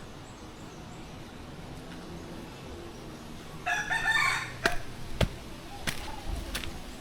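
A rooster crowing once, about halfway through, over a low murmur of background noise. A few sharp clicks follow it.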